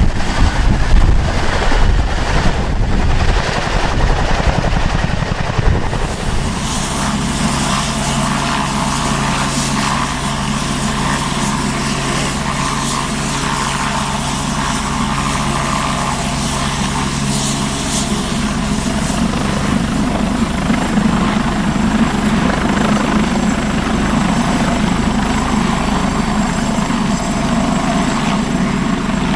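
Helicopter running: wind buffeting the microphone for the first few seconds, then, from about six seconds in, the steady drone of its rotor and engine.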